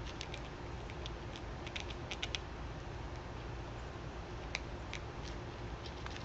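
Quick, light clicks and taps of birds and squirrels feeding at scattered seed, clustered in the first couple of seconds with a few more later, over a steady background hiss and low rumble.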